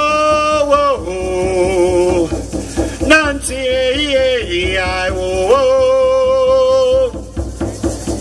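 Traditional Kwakwaka'wakw song sung by a man's voice in long held notes that slide between pitches, over a steady drum beat.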